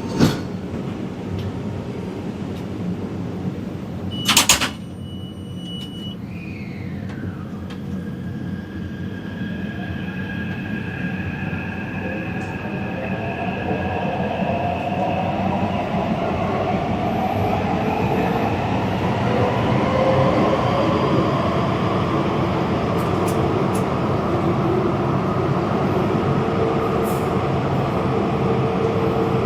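Taipei Metro train running, with a short click at the start and a loud sharp knock about four seconds in. Then several whining tones rise steadily in pitch while the running noise grows louder as the train speeds up.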